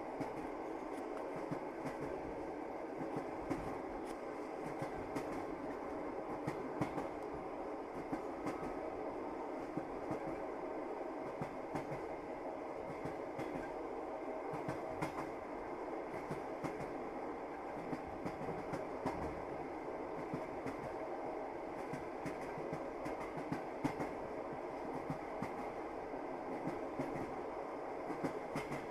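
Passenger train running at steady speed: a constant rumble of the carriage with frequent sharp clicks of the wheels passing over rail joints.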